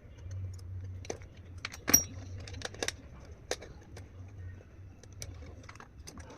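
Light metallic clicks and taps of small tools and wire leads being handled while rewiring a mixer grinder motor. The loudest tap comes about two seconds in, and a low steady hum runs underneath.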